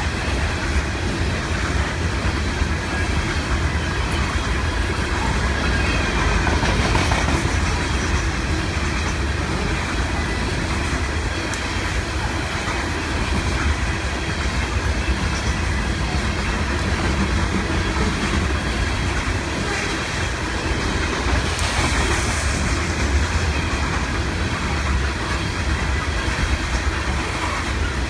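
A freight train's coal hopper cars rolling past, a steady, continuous rumble of steel wheels on the rails.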